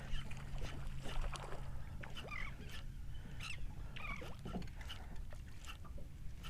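A low, steady hum from the skiff's electric trolling motor that fades out about halfway through, under light water noise, with scattered short high chirps of seabirds working over the feeding trout.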